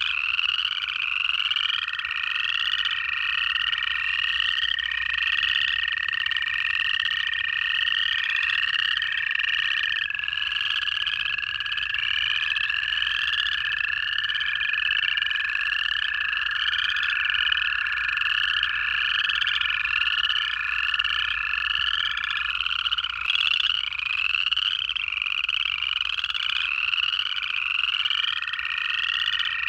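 A dense pond chorus of upland chorus frogs, many overlapping ascending trills repeating over and over. Under them run long, even trills of American toads, each held for many seconds; one stops about two-thirds of the way through and another begins near the end.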